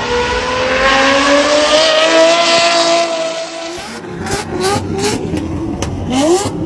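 TWR Supercat's supercharged V12 accelerating hard, its note climbing steadily in one long pull. About four seconds in the note drops and a run of short, quick rising revs follows, with sharp cracks among them.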